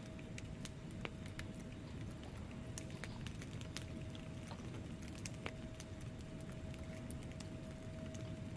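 Wood fire burning in a fireplace: logs crackling with many irregular sharp pops over a low steady rumble of flames.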